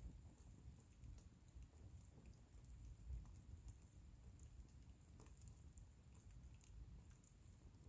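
Faint crackling of a wood bonfire: scattered sharp pops and ticks at uneven intervals over a low, steady rumble.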